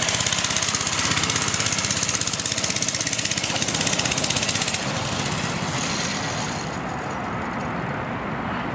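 Dirt bike engine running with a fast pulsing note, loud at first; a bit under five seconds in it turns quieter and duller.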